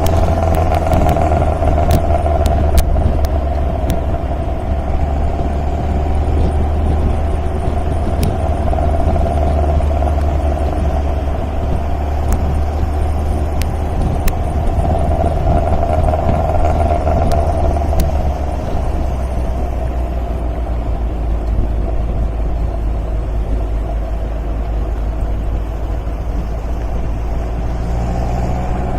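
MGA roadster's four-cylinder engine running steadily under way on the road, a deep drone that shifts slightly about two-thirds of the way through, with a few light clicks early on.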